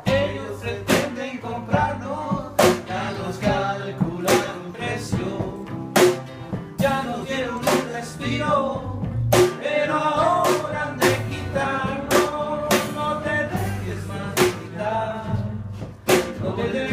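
Live band playing an instrumental intro: drum kit hits over guitar and bass.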